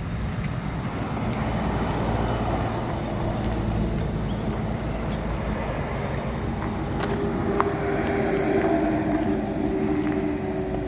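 Pickup truck engine running steadily, a low rumble with a higher steady tone joining about two-thirds through, and a sharp click about seven and a half seconds in.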